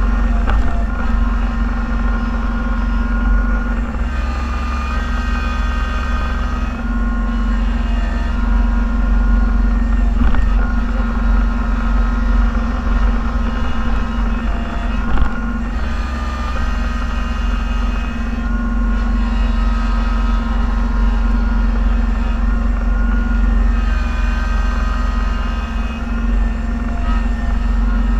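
Snowplow vehicle's engine running steadily, heard from inside the cab, with higher whining tones that shift a little in pitch. A couple of short knocks come about ten and fifteen seconds in.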